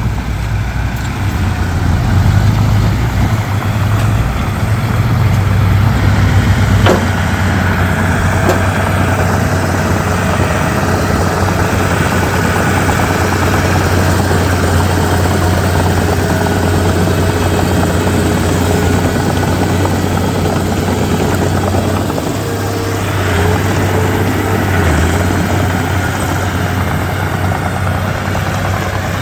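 Komatsu D31P bulldozer's diesel engine running with a steady low drone, and a single sharp click about seven seconds in.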